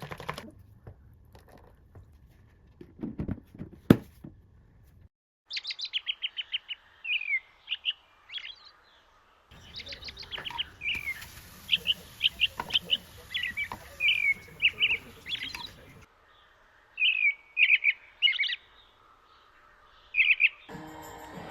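A small songbird chirping: runs of quick, high chirps that slide down in pitch, in bursts that start and stop abruptly. Before the birdsong there are a couple of sharp clinks.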